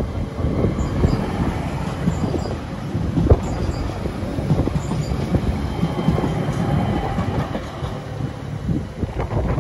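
ÖBB Bombardier Talent electric multiple unit passing close by, its wheels clattering over the track with a run of repeated knocks, the sharpest a little over three seconds in.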